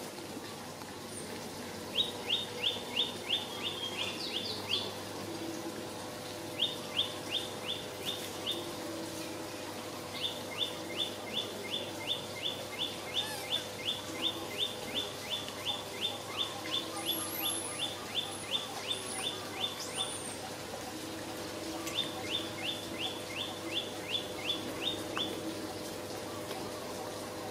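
A bird calling in rapid runs of short, sharp, high notes, several a second, in four bouts with pauses between, over a faint steady hum.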